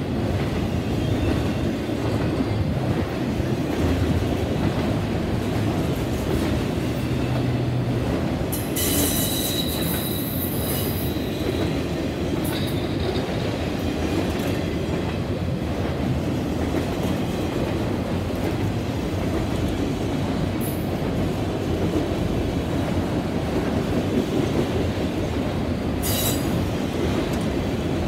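Freight train of autorack cars rolling past with a steady low rumble. Wheels squeal high-pitched several times: a longer squeal about nine seconds in lasting about two seconds, and short squeals later on.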